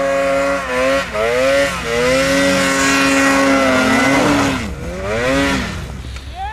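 Snowmobile engine revving, its pitch climbing and dropping several times. It is held high for a couple of seconds in the middle, then falls, surges once more and drops off near the end.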